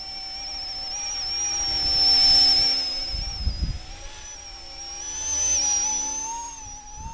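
Small electric RC helicopter's motors and rotors whining in flight with a high steady whistle. It swells louder about two seconds in and again near six seconds, and its pitch wavers.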